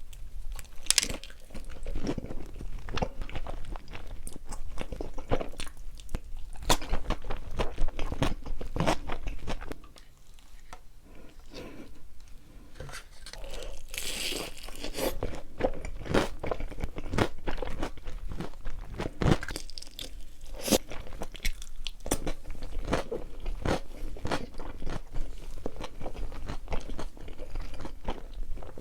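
Close-miked chewing and crunching while eating pizza: a steady run of irregular bites, crackles and wet mouth sounds. It quiets briefly partway through, then the chewing resumes.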